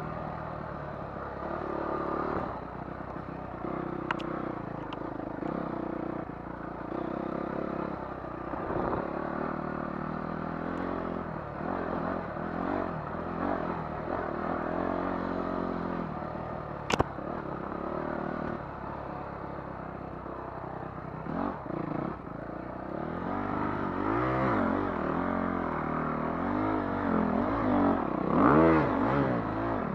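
Motocross dirt bike engine revving up and down as it is ridden, rising and falling over and over, loudest near the end. A single sharp knock comes about halfway through.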